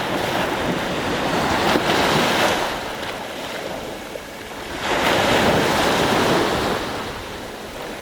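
Sea waves surging and breaking on a shore, with two loud swells, about two seconds in and about five seconds in, easing off between them.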